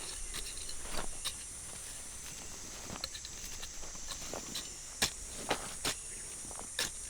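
A steady high insect drone in the forest, with about eight light knocks and clicks scattered through it.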